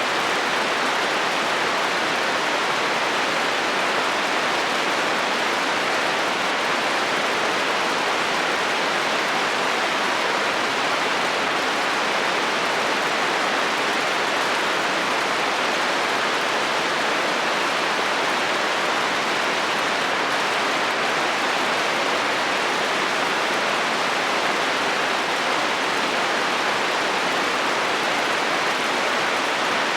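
Steady heavy rain falling on a metal roof, an even hiss that does not change, with no thunder.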